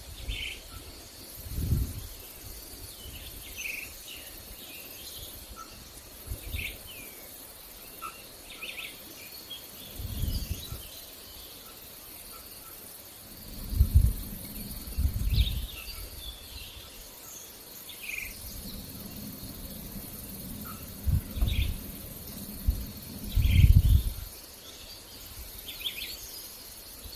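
Outdoor ambience of insects, with a steady high-pitched trill, and birds giving short scattered chirps. Several low rumbles come and go, the loudest about halfway through and near the end.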